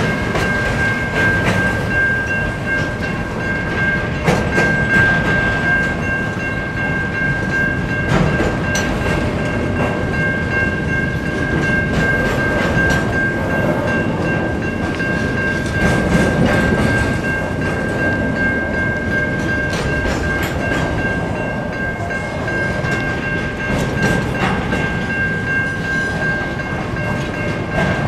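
Double-stacked container wagons of a freight train rolling past, wheels rumbling and clacking over the rail joints. A steady high-pitched tone sits over the rumble.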